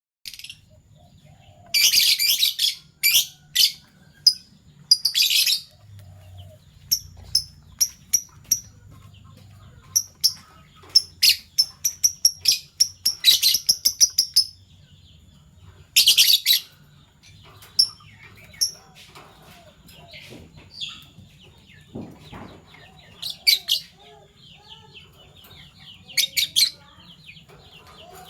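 Fischer's lovebirds chirping: sharp, high-pitched chirps in irregular bursts, with a fast run of repeated chirps around the middle.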